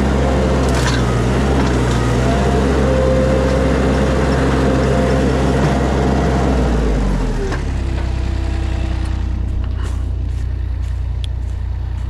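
Mini skid steer's engine running at high throttle with a steady hum, then throttled back about seven seconds in, its pitch falling to a lower, quieter idle. A few light clicks follow near the end.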